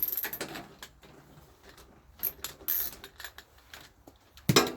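Socket ratchet clicking in short runs, with metal tool clatter, while bolts are worked on a riding mower's engine.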